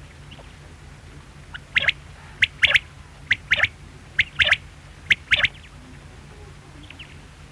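Quail calling: five quick three-note phrases, each a soft note followed by a sharp double note, repeated about once every 0.8 seconds, starting about a second and a half in. A steady low hum runs underneath.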